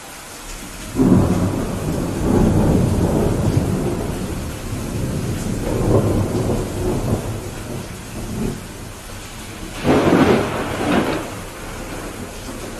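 Steady rain with rolls of thunder: a long rumble building about a second in, and a sharper double peal around ten seconds in.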